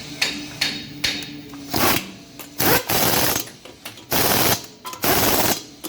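Pneumatic impact wrench run in about six short rattling bursts, each roughly half a second, after a few sharp clicks: fasteners being run on as the rear hub and wheel are put back together.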